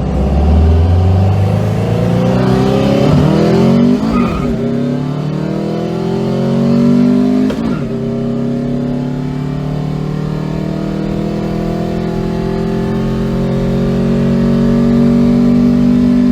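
Car engine accelerating, its pitch climbing, dropping sharply at a gear change about seven and a half seconds in, then climbing steadily again.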